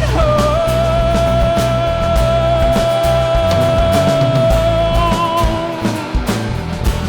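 Live rock band playing, with one long note held for about six seconds over bass and drums.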